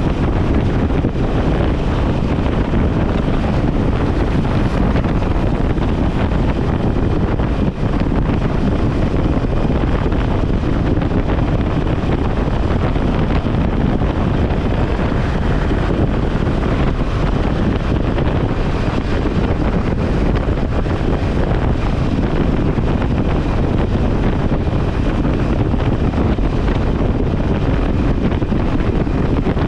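Motorcycle cruising at freeway speed, heard as a steady, loud rush of wind buffeting the microphone over the bike's running.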